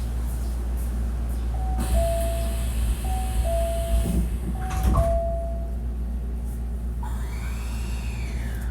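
Hankyu 1300 series commuter train at a station stop: the door chime rings three times as two-note high-low pairs while the sliding doors close with a hiss of air and a couple of knocks. About seven seconds in, the train's traction inverter whine rises and then falls as it starts to pull away, over a steady low hum.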